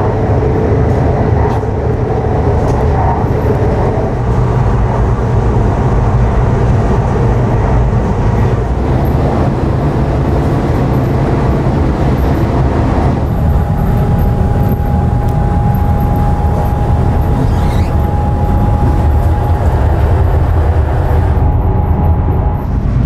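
Running noise of a CR400AF Fuxing-Hao high-speed train at speed, heard from inside the carriage: a steady low rumble. About halfway through, a thin steady hum joins it and holds until shortly before the end.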